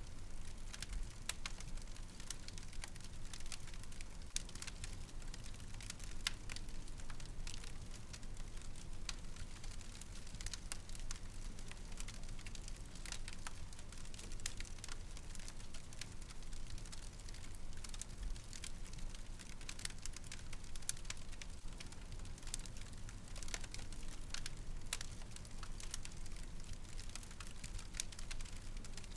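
Wood fire crackling, with frequent irregular sharp pops and snaps over a low steady rumble of burning.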